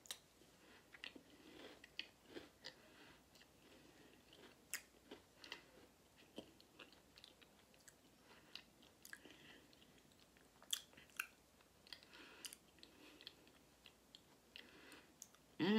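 A person chewing a mouthful of Twix Cookies & Creme candy bar, with faint, irregular crunches and small mouth clicks.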